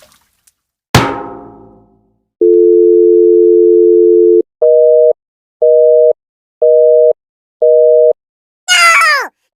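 A single drum-like hit that rings out and fades over about a second, then a steady telephone-style tone for two seconds followed by four short busy-signal beeps about one a second. Near the end a high cry begins, falling in pitch.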